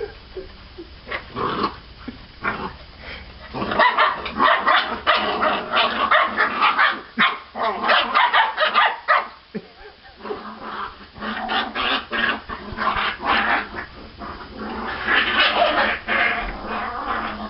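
A litter of half-Labrador puppies fighting, a dense run of short, overlapping yaps and snarls that is sparse at first and thickens about four seconds in.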